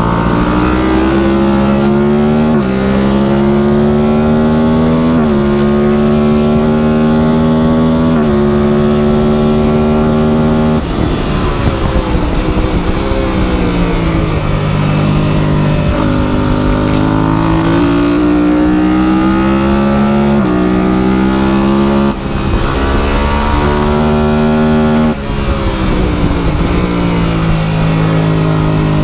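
Superbike engine accelerating hard through the gears: the engine note climbs and drops sharply at each upshift, three times, then eases off and falls. It then climbs again through several more upshifts.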